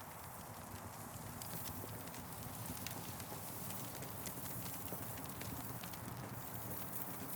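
Campfire burning, crackling with frequent small irregular pops and snaps over a steady low rumble.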